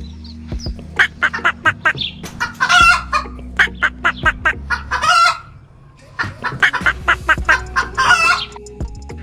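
Chickens clucking in quick, repeated calls, with a low steady hum underneath that stops and starts.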